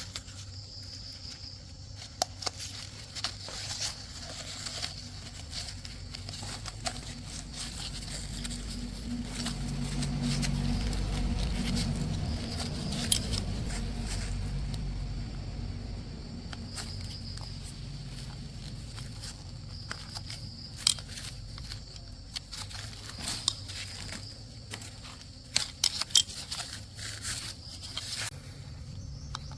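Scattered clicks, taps and crinkling of hands working with small parts, over a low hum that swells about ten seconds in and then fades.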